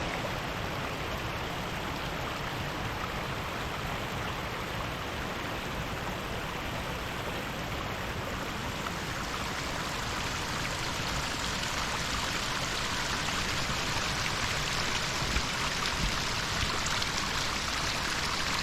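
Rushing water of a stream and waterfall, a steady hiss that grows a little louder over the second half.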